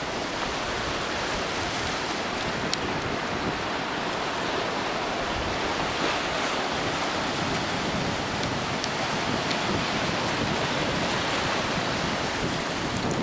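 Ocean surf washing onto the beach, a steady rushing noise, with wind blowing on the microphone.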